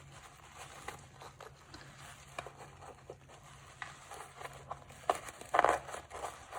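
Rustling and small scattered clicks of thin binding wire being pushed through and twisted in a coarse coco-husk (coir) sheet, with a louder crinkling rustle about five and a half seconds in.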